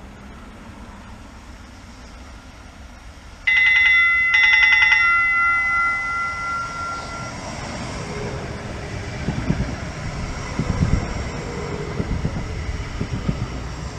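A train's warning bell rings in two quick, rapid-fire bursts about three and a half seconds in, and the ringing dies away over the next few seconds. Then the train sets up a low rumble with irregular clunks as it comes along the platform.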